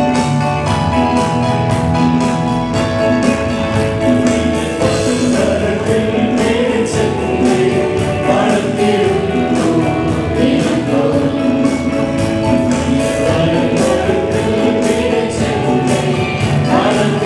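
Gospel music with a choir singing over a steady beat, with a tambourine among the instruments.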